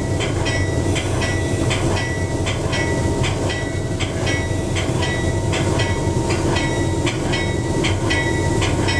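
A railroad bell ringing in a steady rhythm, about two strokes a second, over the continuous rumble of a train.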